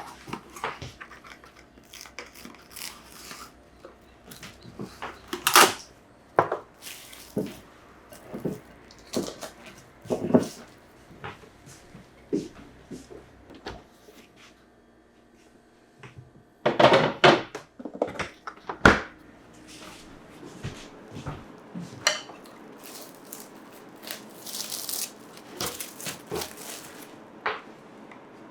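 Kitchen handling sounds: irregular clicks, knocks and light scrapes of utensils and containers being picked up and set down, with a quick run of louder knocks about two-thirds of the way in.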